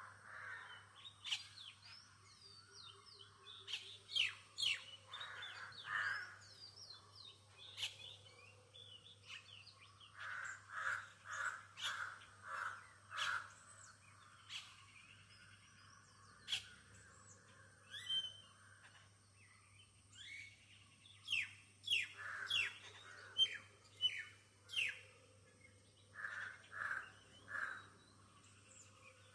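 Several birds calling in a morning chorus: many short high chirps and whistles, mixed with lower calls repeated in quick runs of four to six, around the middle and again near the end.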